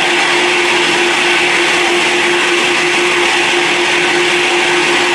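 Jet airliner engines running steadily: an even, loud rushing whine with a constant low hum underneath.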